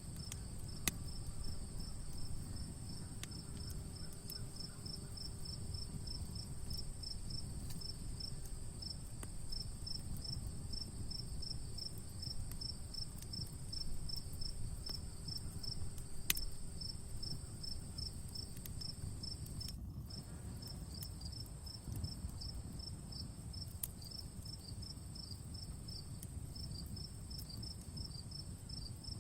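Crickets chirping steadily at about five chirps a second over a continuous high insect whine and a low rushing background. A wood fire gives a few sharp, scattered pops.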